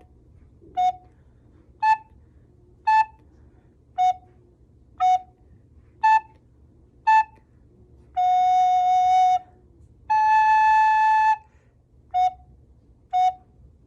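Recorder playing a simple two-note tune on F# and A: pairs of short detached notes about one a second, the pitch stepping between the lower and higher note, then a long held low note and a long held high note, then two short low notes.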